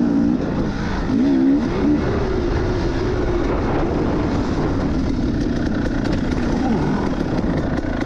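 KTM 300 two-stroke dirt bike's single-cylinder engine being ridden, its revs rising and falling repeatedly as the throttle is worked on and off.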